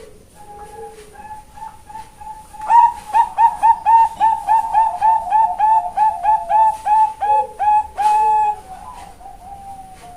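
Female Bangkok-bred zebra dove (perkutut) singing: a few soft coos, then from about a quarter of the way in a loud, rapid run of ringing coo notes, about three to four a second, which trails off into softer notes near the end.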